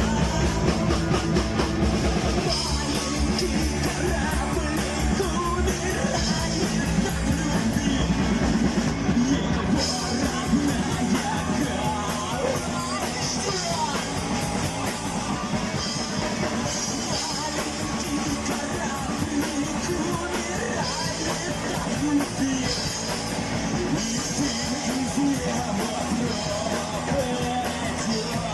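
Rock band playing an instrumental passage with a driving drum kit, with no sung words.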